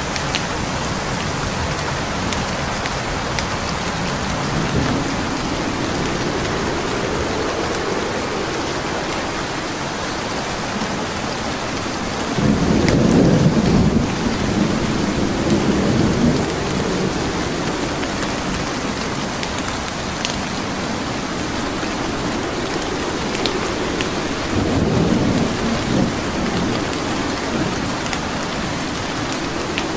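Steady heavy rain with low rolls of thunder, the loudest about halfway through and another near the end, with scattered sharp crackles of a wood fire.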